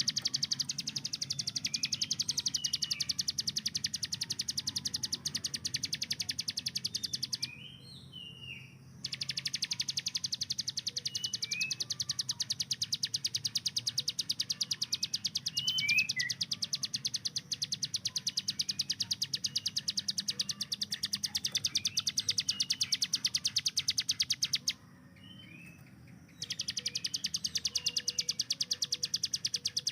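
Ciblek gunung prinia singing its rapid-fire 'tembakan' song: a very fast, even string of high ticking notes in long bouts like machine-gun fire, breaking off briefly about seven seconds in and again near the end. A few short whistled chirps sound over it.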